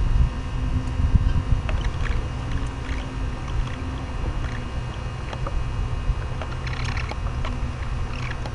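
Macaws cracking walnut and peanut shells at a feeder: scattered sharp cracks and clicks, a few in quick succession about seven seconds in. Under them runs a steady low wind rumble on the microphone, loudest in the first second or so.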